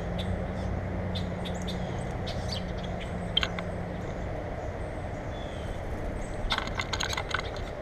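Small birds chirping in short, scattered calls, with a quick burst of rapid chirps and clicks near the end. A steady low rumble runs underneath, and a low hum in it fades out about halfway.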